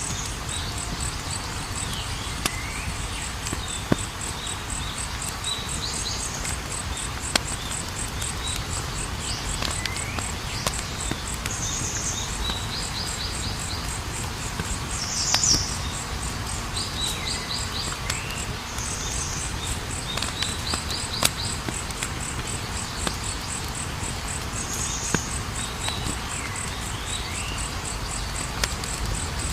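Campfire burning with a steady low rush and occasional sharp pops. Behind it runs a continuous high, fast-pulsing trill, and groups of chirping calls recur every few seconds.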